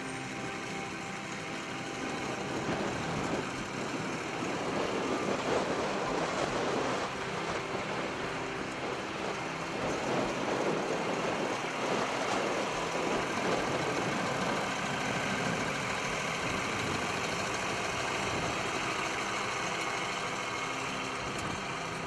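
John Deere 4440 tractor's six-cylinder diesel engine running steadily, growing louder about three seconds in and easing back to a steady run after about fourteen seconds.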